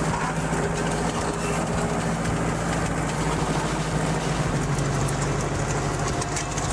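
Heavy vehicle engine running steadily, a low even drone.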